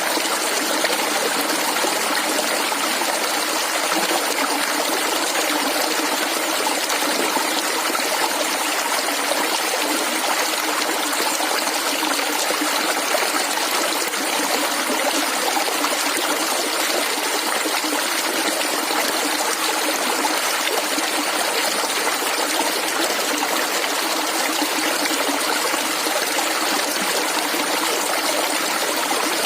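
Shallow stream water flowing and gurgling steadily.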